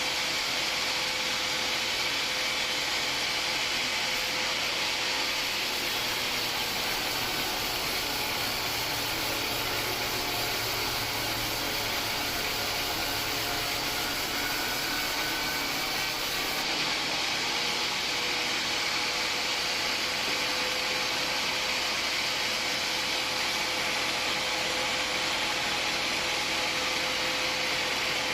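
Homemade band sawmill running steadily, a continuous hissing noise with a held whine through it.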